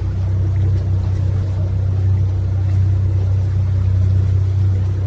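Canal tour boat's motor running at a steady pace, a constant low hum.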